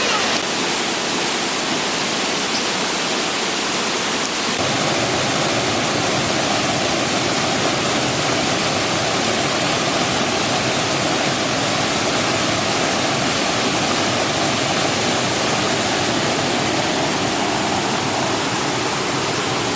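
Sen Monorom waterfall's steady rush of falling water. Its low part grows fuller about four and a half seconds in.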